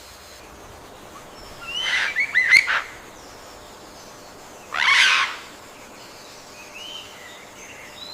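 Bird calls against a soft forest hiss: a quick run of chirping notes about two seconds in, a second loud burst around five seconds, then a few faint short calls near the end.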